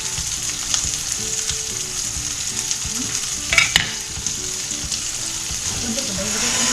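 Corned beef and onions frying in a pan, a steady sizzle, with a sharp clatter of a utensil against the pan about three and a half seconds in.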